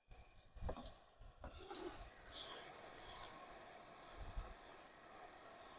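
Food sizzling in a hot skillet of bacon lardons and peppers as spring onions go in: a few light knocks, then a sizzle that swells about two seconds in and settles to a steady hiss.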